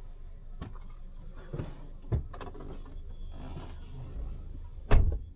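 Clicks and knocks around a car over a low steady hum, then one loud thump about five seconds in, a car door shutting.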